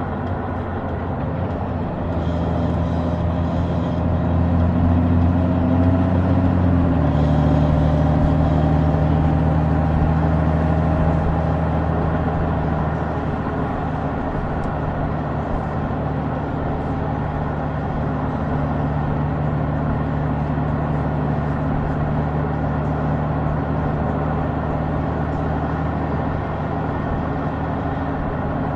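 Honda Gold Wing's 1833 cc flat-six engine pulling under way, with wind and tyre noise. Its note rises a little over the first few seconds, drops in one step about seven seconds in as the dual-clutch gearbox shifts up, then holds steady at cruise.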